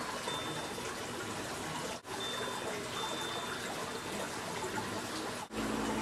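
Steady rushing hiss like running water, with a few brief high ringing tones over it. It cuts out sharply twice, about two seconds in and near the end, and after the second cut a low steady hum joins the hiss.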